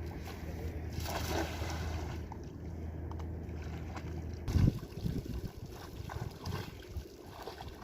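Fishing boat's motor running with a steady low hum that stops about four and a half seconds in, followed by one loud heavy thump and a few softer knocks on the boat.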